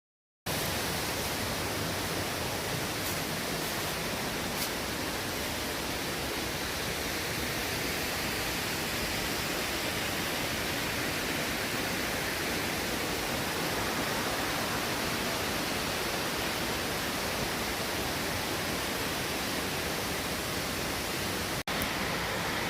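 Waterfall rushing: a steady, even noise of falling water that cuts in suddenly after a moment of silence, with a brief dropout near the end.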